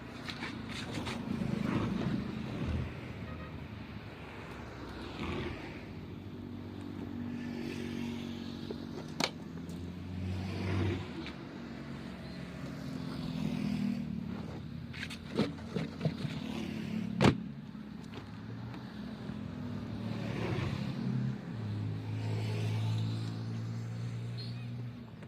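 Vehicle engines running and passing by, their hum swelling and fading several times, with a few sharp knocks in between.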